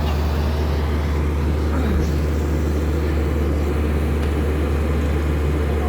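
Heavy diesel engine of construction machinery running steadily, with a deep, even hum and no revving.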